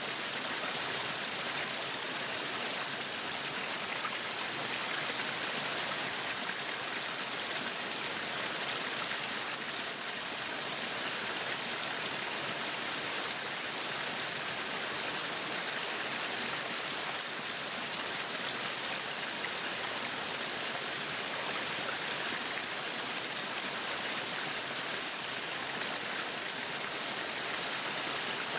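Meat sizzling on a yakiniku grill: a steady, unbroken sizzle.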